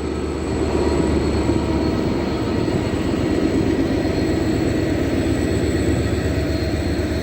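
Diesel freight locomotives coupled in a convoy, a Class 73 followed by Class 69s, passing slowly with their engines running in a steady low rumble.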